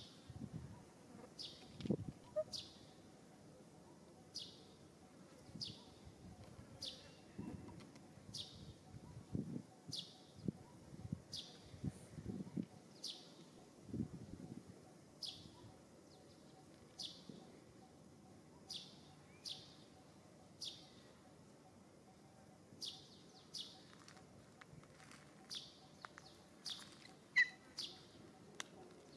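A bird calling over and over: short, high chirps that drop in pitch, roughly one a second, with faint low rumbling underneath.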